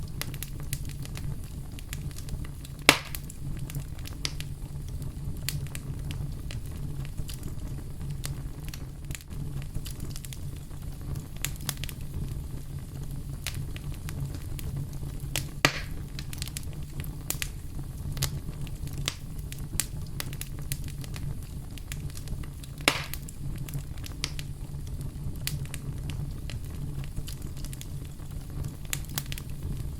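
Campfire crackling, with frequent small snaps and three louder pops spread through it, over a steady low rumble.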